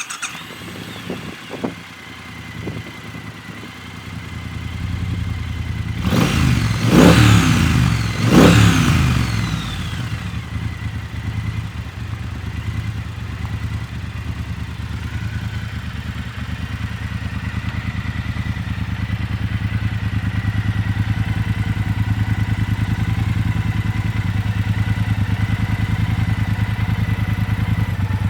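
Triumph Bobber Black's 1200 cc parallel-twin engine just after starting: it is revved twice, about six and eight seconds in, then settles to a steady idle.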